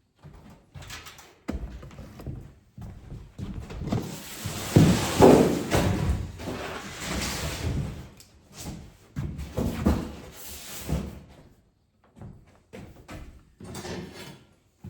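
Irregular knocks, thuds and rattling of sheet-metal microwave parts being handled and pried at during disassembly, with a longer, louder stretch of clattering in the middle.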